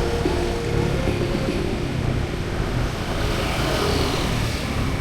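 Street traffic: motor vehicle engines running nearby, with a louder swell of tyre and engine noise about three to four seconds in as a vehicle goes past.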